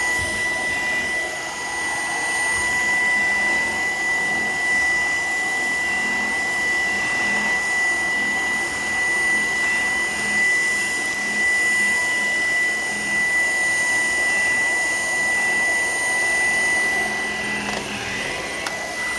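Shark PowerDetect vacuum cleaner running steadily, its motor giving a constant high whine over the rush of suction.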